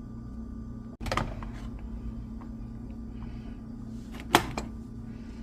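A kitchen knife knocking on a cutting board a few times while mushrooms are rough chopped, the loudest knock about four seconds in, over a steady low hum.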